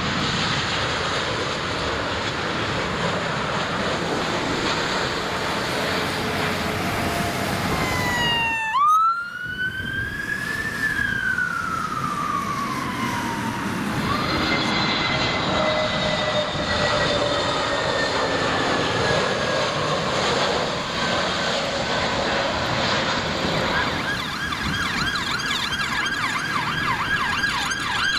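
Jet airliner noise with engine tones falling in pitch as the aircraft passes. In the last few seconds a fast rising-and-falling emergency-vehicle siren starts up.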